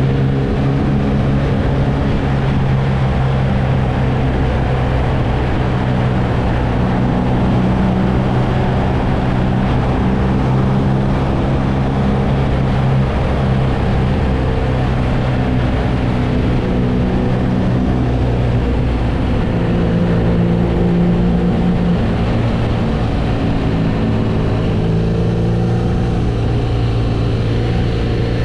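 BMW R nineT motorcycle's air/oil-cooled boxer twin running steadily while riding, its note holding with small shifts in pitch, over a steady rush of wind and road noise.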